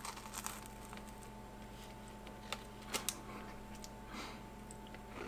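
Faint chewing of a crunchy oat sandwich cookie filled with raspberry jam and buttercream: soft crunches and a few sharp mouth clicks, the clearest about two and a half to three seconds in, over a steady low hum.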